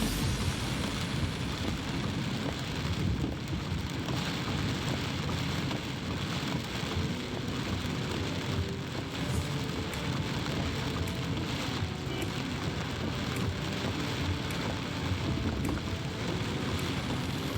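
Heavy monsoon rain falling: a steady, even hiss of rain with scattered sharp ticks of drops striking a surface.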